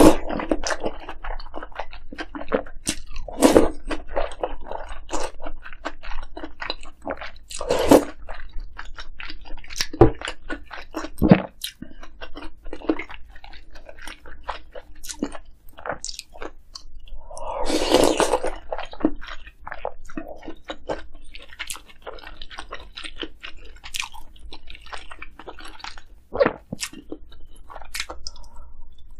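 Close-miked eating of dumpling soup and kimchi: steady wet chewing with crisp crunching bites, irregular and louder now and then.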